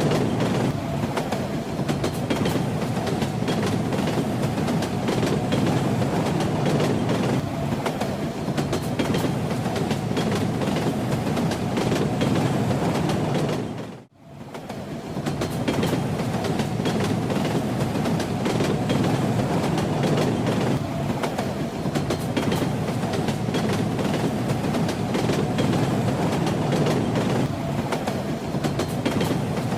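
Railway carriage rolling along the track: a steady rumble with the clatter of the wheels over the rail joints. About halfway through, the sound fades out briefly and comes straight back in.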